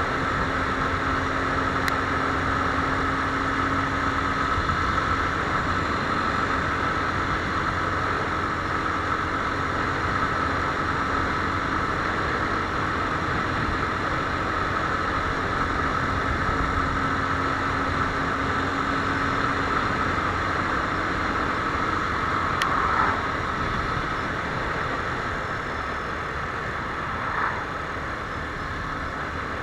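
Viper R2 motorcycle engine running steadily at an even pitch, with a constant background rush.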